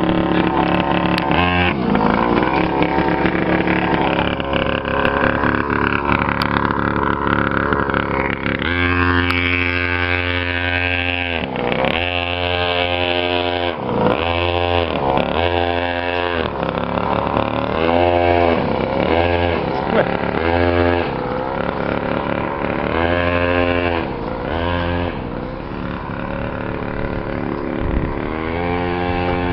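Custom chopper motorcycle engine running steadily, then revved over and over from about nine seconds in, each blip of the throttle rising and falling in pitch.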